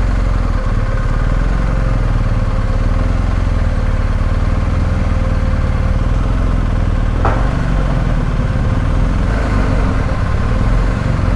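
BMW R1250 GS boxer-twin motorcycle engine running steadily at low revs, with a single sharp click about seven seconds in.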